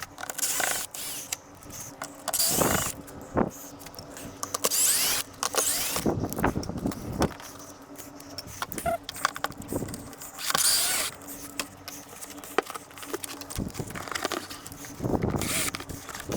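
Hands working with tools and small parts on a rooftop air conditioner's wiring and fittings: scattered clicks and small knocks, with several short bursts of scraping or rustling. A faint steady hum sits underneath.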